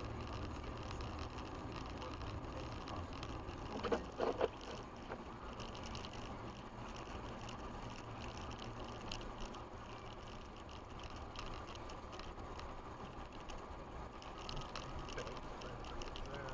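4x4 truck driving on a snowy road: steady engine and road rumble, with a quick cluster of knocks about four seconds in.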